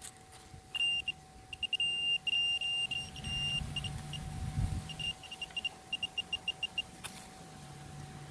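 Metal detector beeping at one high pitch over a buried coin: longer beeps at first, then quick short beeps, about five or six a second, as it closes in on the target. A click comes near the end, and a low hum follows.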